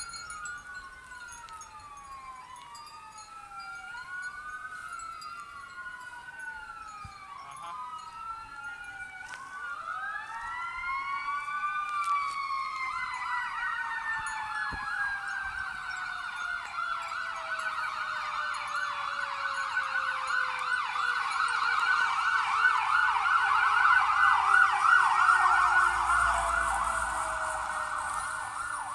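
Emergency vehicle sirens: several overlapping wails rising and falling, then a fast yelp that gets louder, peaks a few seconds before the end and begins to fade.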